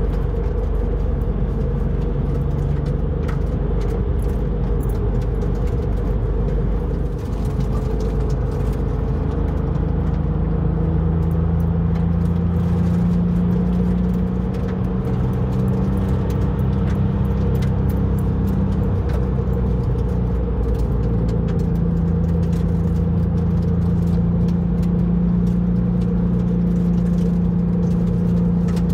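Porsche 911 (996.2) Cabriolet's flat-six engine running under way, heard from inside the car over steady road noise; its note shifts up and down in pitch several times as the speed and gearing change.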